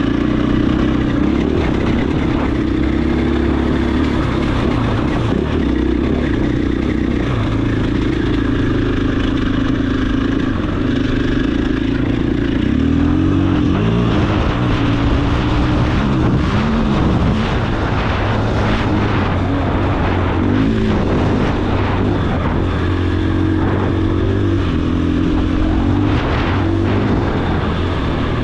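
KTM 500 EXC-F single-cylinder four-stroke dirt bike engine running under load on the trail, steady at first. From about halfway through, its pitch rises and falls repeatedly as the throttle is opened and closed.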